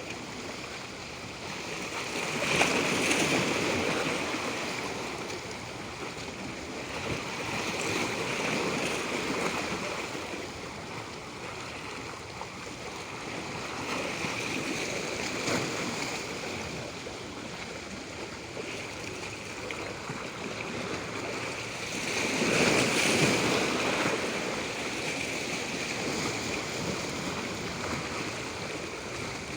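Natural water rushing steadily, swelling louder a few seconds in and again about three-quarters of the way through, with smaller surges in between.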